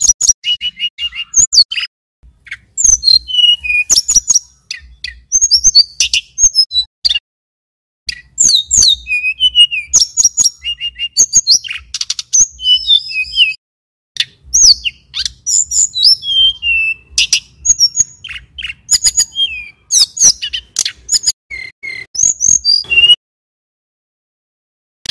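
Male tledekan gunung (sulingan gunung) singing a fast, loud song of high chips, trills and whistled glides, delivered in runs of several seconds with short breaks, stopping shortly before the end.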